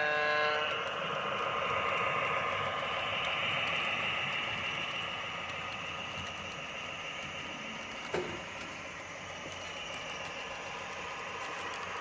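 Model diesel locomotive running on the layout: a short horn blast ends about half a second in, followed by a steady mechanical running noise with a hissing whine. A single sharp click comes about eight seconds in.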